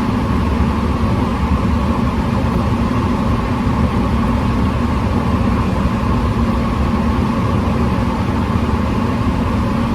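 Steady low rumble of a car running, with no breaks or changes.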